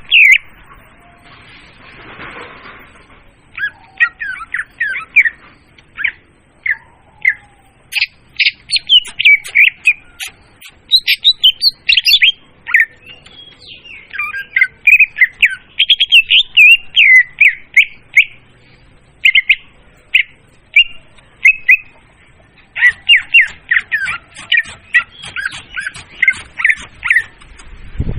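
Leafbird (murai daun) song played as a bird-trapping lure: loud, rapid chattering and warbling phrases of quick high notes in bursts, with short pauses between them.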